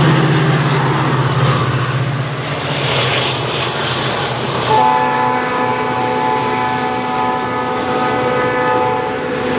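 Passenger train running through a station at speed: a diesel locomotive's engine drone at first, then coaches rushing past with steady wheel-on-rail noise. About halfway a steady tone of several notes sets in and holds.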